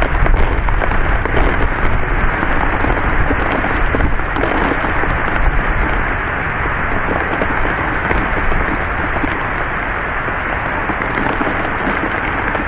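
Heavy rain falling steadily in a thunderstorm, a little louder in the first half.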